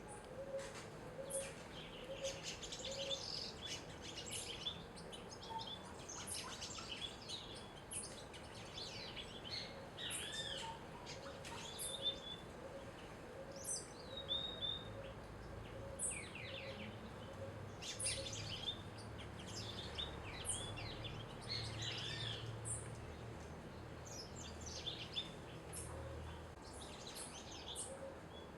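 Several small birds chirping and calling at a feeder, short high notes and trills overlapping, with a faint low note repeating evenly underneath.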